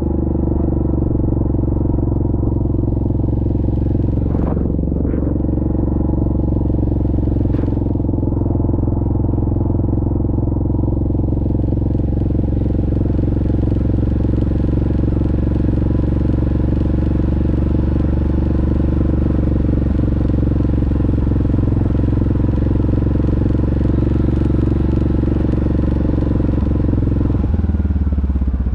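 Yamaha Grizzly ATV's single-cylinder four-stroke engine running steadily under throttle while riding, heard from on board. The engine note shifts near the end.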